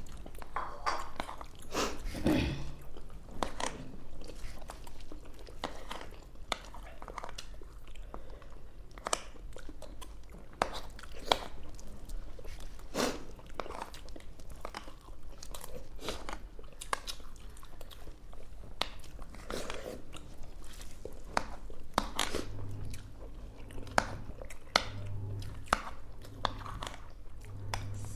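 Close-up eating sounds: chewing and mouth noises of people eating soft idli, vada and pesarattu soaked in sambar, with frequent short clicks and smacks. A low hum comes and goes near the end.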